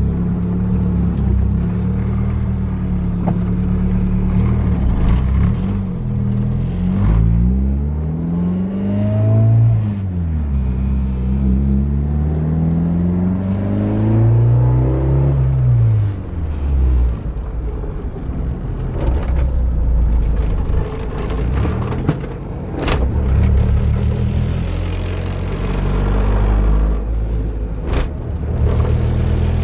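Turbocharged 1995 Honda Civic's four-cylinder engine heard from inside the cabin while driving, revving up and dropping back several times as it pulls through the gears on light boost. A few sharp clicks in the second half.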